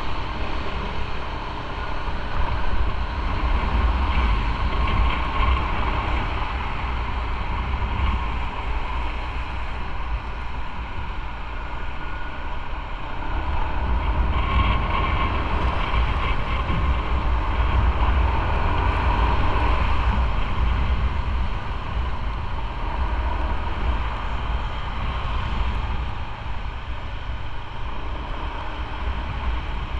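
A motorcycle ridden at road speed: engine running under heavy wind buffeting on the microphone, swelling a little louder midway through.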